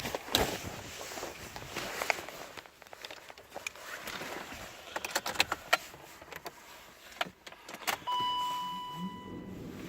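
Scattered clicks and knocks, with keys jangling, as someone handles the key and moves about in a car. Near the end a steady electronic beep sounds for about a second and a half, then a low sound rises in pitch.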